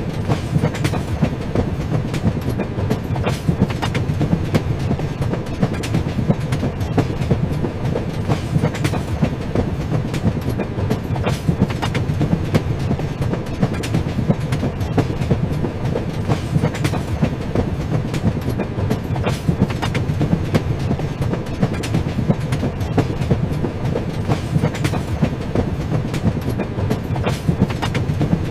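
Train running steadily on the rails: a continuous low rumble with frequent sharp clicks of the wheels passing over the track.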